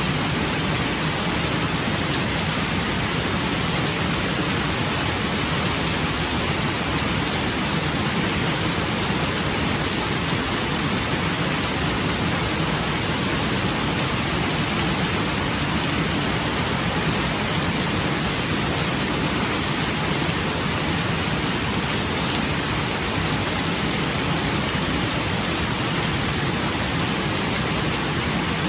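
Steady rain falling, an even hiss with no breaks or separate strikes.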